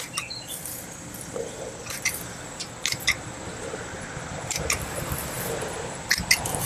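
Potato stems being cut back with shears: a series of sharp snips, several in quick pairs, over rustling of the dying foliage.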